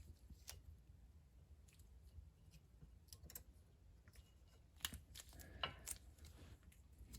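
Faint, scattered clicks and light taps of a rear brake pad and its shim being fitted into the caliper bracket.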